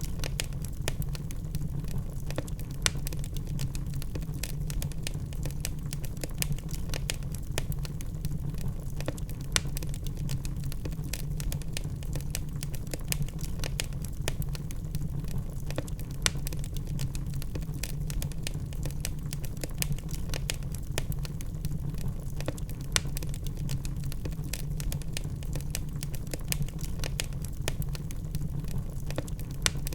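Wood fire of burning logs crackling: frequent sharp, irregular pops and snaps over a steady low rumble of the flames.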